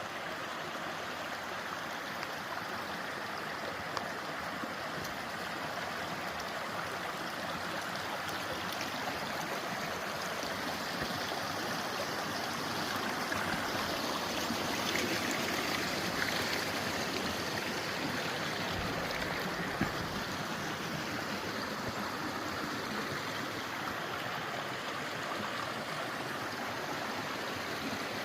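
Mountain creek flowing over rocks: a steady rush and babble of water.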